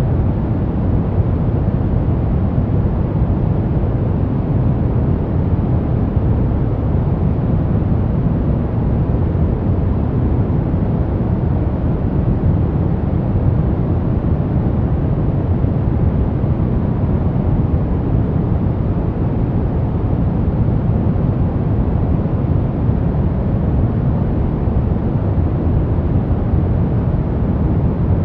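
Steady white noise for baby sleep, an even, unchanging rushing hiss weighted toward the low end, deep rather than bright.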